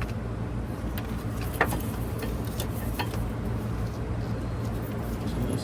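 A few light clicks and taps of metal parts being handled, over a steady low hum.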